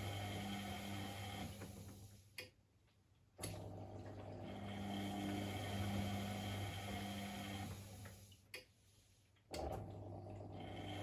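Privileg Sensation 952 S top-loading washing machine tumbling its drum in the wash rhythm: the motor runs with a hum and water sloshing, coasts down, stops with a click, and after about a second starts again with a click, twice.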